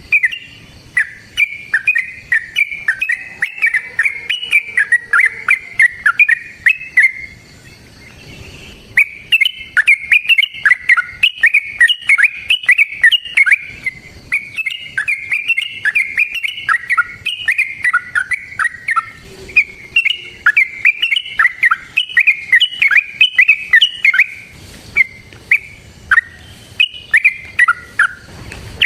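Yellow-vented bulbul (trucukan) singing in long runs of quick, warbling notes, with a few short breaks between phrases.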